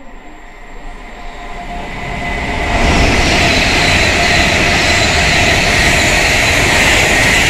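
Passenger train passing at speed: a rush of wheels on rail that builds over the first three seconds, then holds loud and steady with a faint high whine.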